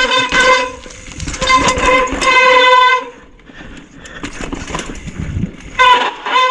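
Bicycle brake squealing in a loud, steady, high-pitched tone that comes in long stretches as the rider brakes, stopping for a few seconds in the middle and starting again near the end. Rough rumbling tyre noise fills the gaps between squeals.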